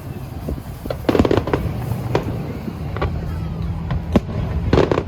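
Aerial fireworks shells bursting in a series of sharp bangs, with a rapid cluster about a second in and another near the end and single reports between.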